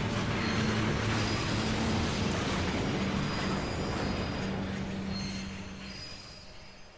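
A train running past with its wheels squealing on the rails, the noise fading away over the last couple of seconds.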